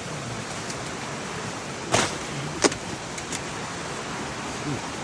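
Steady rush of flowing river water mixed with falling rain, with two sharp taps about two seconds in.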